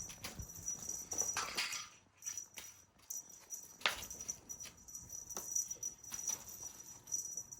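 Irregular light taps, clicks and rustles of a cat's hunting play with a toy, in quick uneven bunches.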